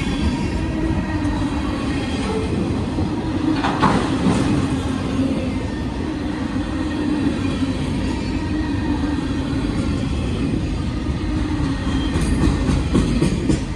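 Freight train rolling past with a steady, heavy rumble of wheels on rail. There is a brief squeal about four seconds in and a quick run of sharp clicks near the end.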